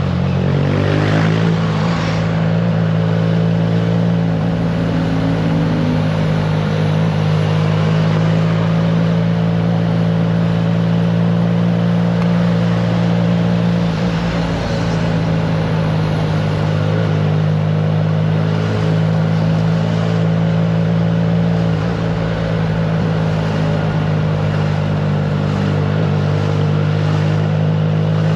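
Triumph Trident 660's inline three-cylinder engine breathing through a FireTong aftermarket exhaust while the motorcycle is ridden. The engine note climbs about a second in, then holds steady at cruising speed.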